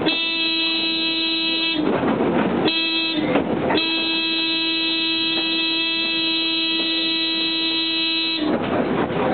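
Streetcar horn sounding a long blast, a short blast and another long blast, the end of the long-long-short-long grade-crossing signal, with the car's running noise between the blasts.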